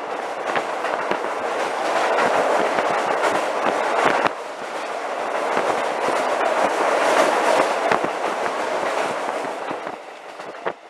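Train running over a rail bridge, heard from on board: a steady rumble full of quick clicks and clacks from the wheels and rails, dropping in level near the end as it leaves the bridge.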